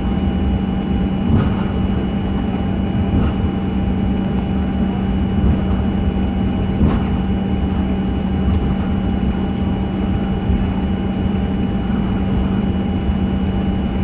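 Cabin noise of a Boeing 737-900 with its CFM56 engines running at a steady low power: a constant rumble and hum with fixed whining tones above it. A few faint knocks come through near two seconds in and again near seven seconds.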